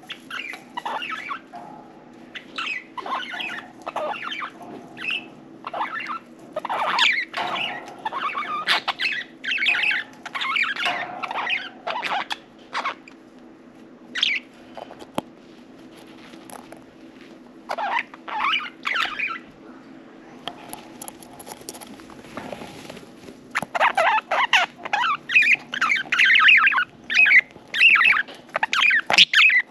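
Budgerigars chirping and chattering in irregular bursts of short calls, turning into dense continuous chatter for the last six seconds or so. A faint low steady hum runs underneath.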